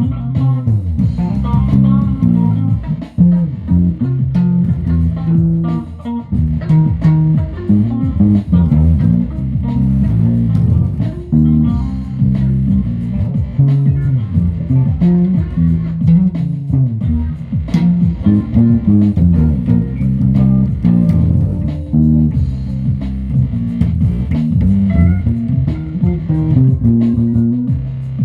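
Music played on plucked guitar with a prominent bass line, a continuous run of changing low notes.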